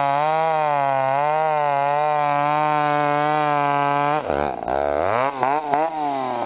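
Two-stroke chainsaw running at full throttle with a steady high drone that wavers slightly. About four seconds in, its revs drop sharply several times and climb back, as when the chain bogs under load in the cut.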